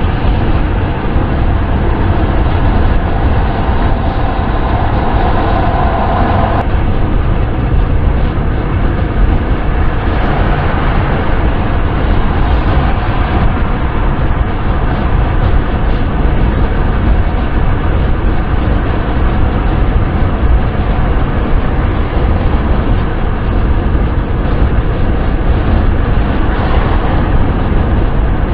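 Steady wind and road noise of a car driving, a deep, even rumble with hiss above it. About three seconds in a faint hum joins and cuts off abruptly a few seconds later.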